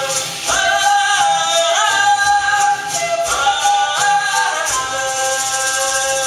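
Music with singing: a high voice holding long notes, sliding up into several of them, about five notes in all.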